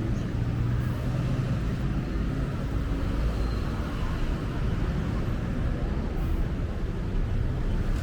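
Busy city road traffic: a steady rumble of passing cars and buses, with an engine hum plainest in the first couple of seconds.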